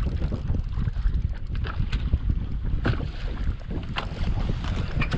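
Wind buffeting the microphone on an open fishing boat, a steady low rumble, with a few scattered small clicks and knocks.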